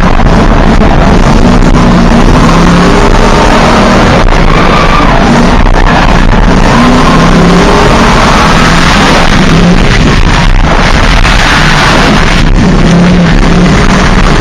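Drift car engine running at high revs, changing pitch as it is revved. The sound is very loud and overloads the microphone, with a rushing noise over it.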